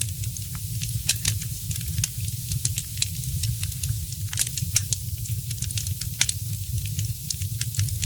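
Wood fire crackling: frequent sharp pops and snaps, several a second, over a steady low rumble.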